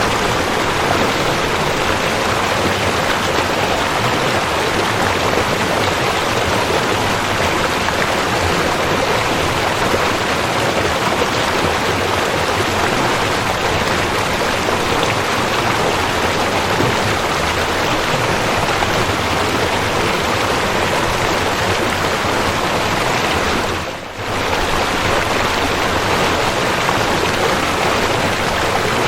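Waterfall: steady, dense rushing of falling water with no rhythm, dipping briefly in level once near the end.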